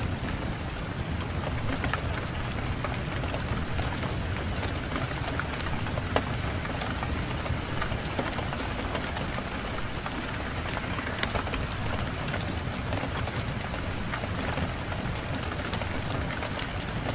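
Wood fire in a fireplace crackling, with many scattered sharp pops and snaps over a steady low rush of wind.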